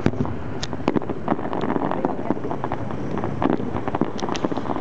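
Fireworks popping and crackling in scattered sharp cracks, over a steady rushing noise with wind on the microphone.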